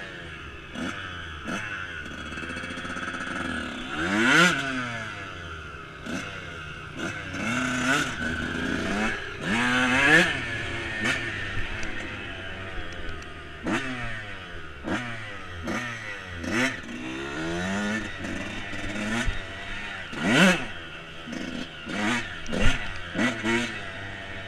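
Dirt bike engine revving up and falling back over and over as it is ridden, with frequent knocks and rattles throughout.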